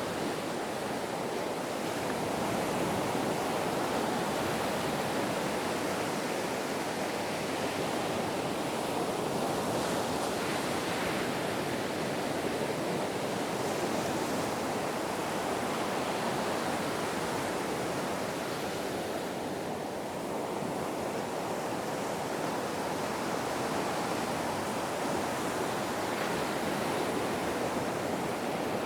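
Ocean surf: a continuous rushing wash of waves breaking, swelling and easing gently, with a brief lull about two-thirds of the way through.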